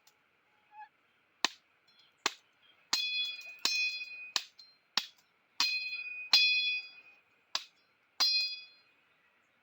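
A metal tool striking something hard about ten times at an uneven pace, roughly one strike every half second to second. Most strikes leave a short, high metallic ring.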